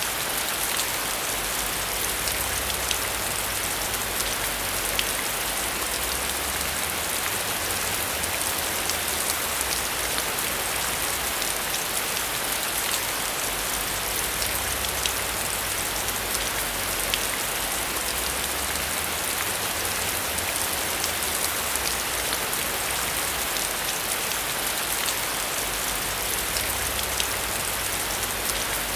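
Heavy rain falling steadily: a dense, even hiss flecked with the ticks of individual drops.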